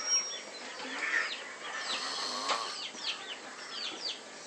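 Birds calling: a run of short chirps, each falling quickly in pitch, several a second.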